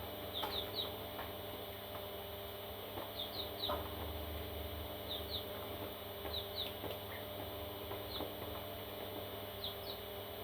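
Parrot chicks giving short, high, rising cheeps, mostly in quick pairs or threes about every second, over a steady low hum.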